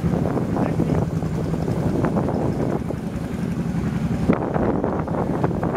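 Wind buffeting the microphone on a moving motorbike, over the steady running of the bike's engine; the rush thins out about four seconds in.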